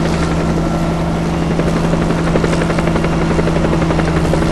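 Helicopter in flight: its engine and main rotor run with a steady drone and a fast, even rotor beat.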